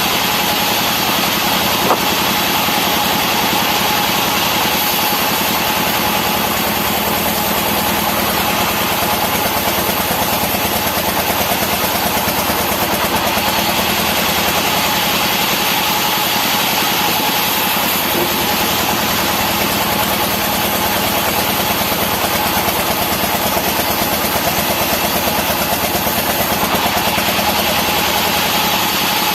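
Engine of a wood-cutting saw rig running steadily at constant speed, with a steady whine on top and no change in pitch or load.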